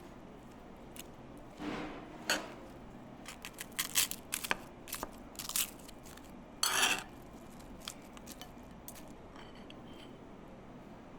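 Food-prep clatter: a run of light clicks and knocks of utensils and dishes, with a short scraping rustle about two-thirds of the way through.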